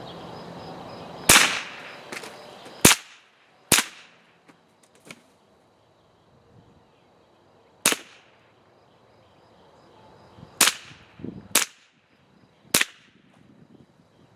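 Seven rifle shots fired at an uneven pace, each with a short echo: three in the first four seconds, one near the middle, and three close together near the end.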